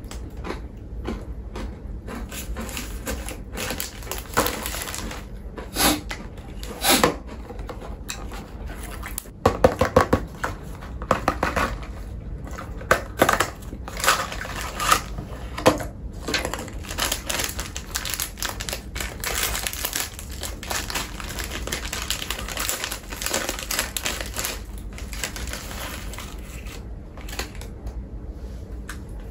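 Close-miked crunching and chewing of crunchy snack food, with many irregular sharp crunches that come thickest in the middle.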